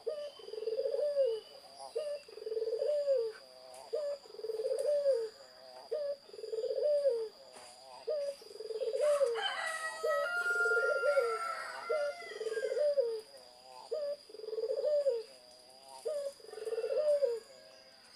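Zebra dove (perkutut) cooing, repeating its rolling arched coo phrase about every two seconds. Other small birds chirp briefly in the middle, over a steady faint high whine.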